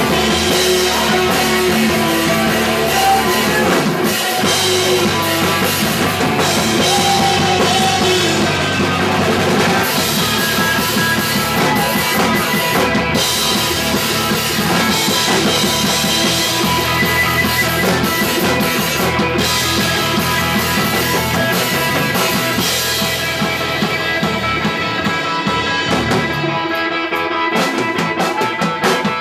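Punk rock band playing live: a pounding drum kit under electric guitars, loud and continuous.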